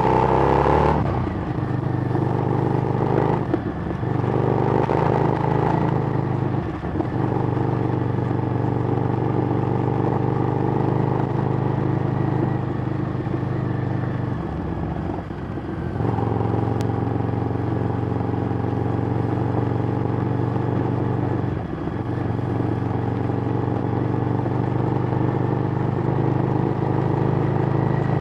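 Harley-Davidson Street Rod's 750 cc V-twin running through a Screamin' Eagle exhaust while riding at a steady pace. The note holds steady, with a handful of short dips, the longest about 15 seconds in.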